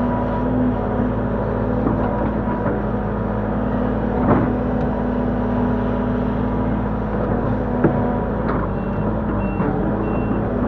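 Link-Belt 145X3E hydraulic excavator's diesel engine running steadily under load, with a few clanks of the working machine. Near the end a reversing alarm starts beeping about twice a second.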